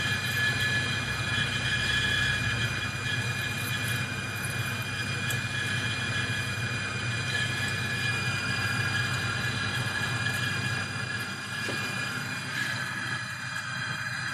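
Metal lathe parting off a 150 mm pipe with a spring-loaded parting tool on slow automatic feed: the machine runs steadily with a steady high whine from the cut.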